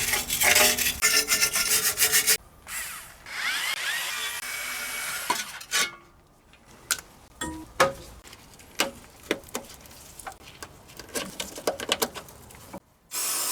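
Hand-tool work on a car's front brake and suspension parts: rapid rasping and scraping strokes, then scattered metal clicks and clinks, with a short hiss near the end.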